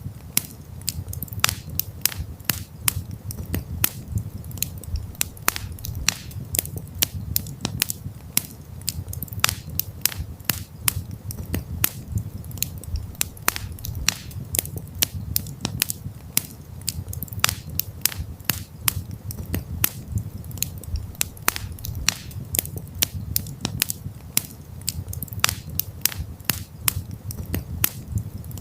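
Campfire crackling: frequent, irregular sharp pops and snaps of burning wood over a low, steady rumble of the flames.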